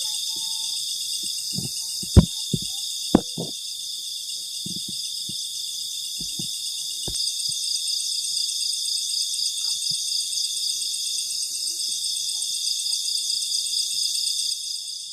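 Crickets and other night insects keeping up a steady, high pulsing chorus. A few short, sharp clicks and knocks come through in the first half, the two loudest about two and three seconds in.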